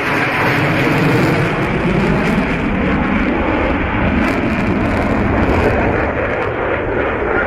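Loud, steady aircraft engine noise with tones that slowly glide in pitch, typical of an aircraft flying past.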